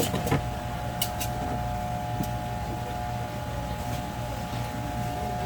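A steady machine hum: a constant mid-pitched tone over a low rumble, with a few light clicks in the first couple of seconds.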